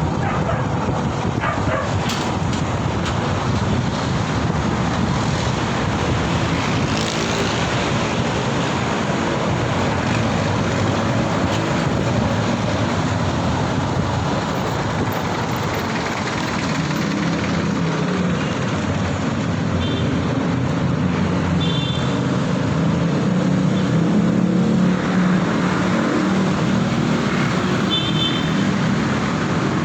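Road and traffic noise heard from a moving motorbike: a steady rush of wind and tyres, with vehicle engines running close by that grow louder in the second half. Short high beeps come three times near the end.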